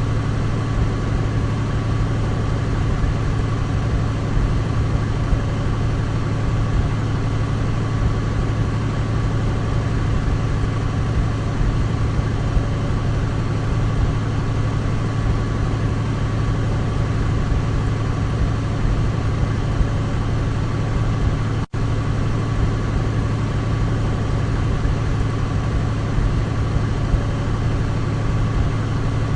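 Douglas DC-3 piston engines running at a steady, even drone, with one split-second dropout about two-thirds of the way through.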